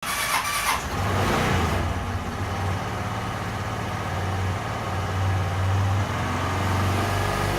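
Suzuki Address V125G scooter's single-cylinder four-stroke engine starting within the first second, then idling steadily with slight rises and falls in speed.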